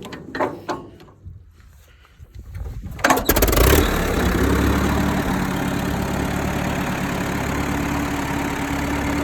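1936 Case Model L tractor's four-cylinder engine being started: a few separate knocks, then about three seconds in it catches with a loud burst and settles into a steady idle.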